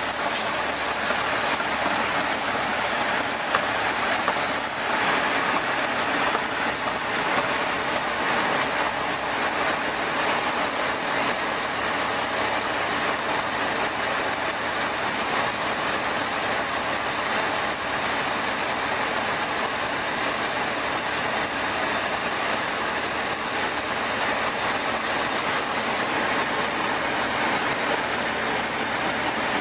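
Nanchang CJ-6's nine-cylinder radial engine and propeller running steadily, a constant drone that holds level without revving up or down.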